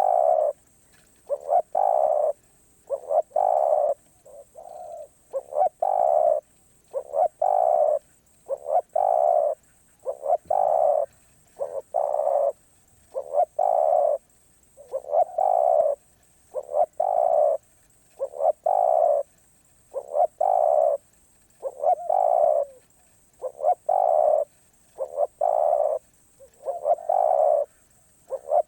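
Spotted dove cooing over and over: each phrase is a short note or two followed by a longer coo, repeating steadily about every second and a half.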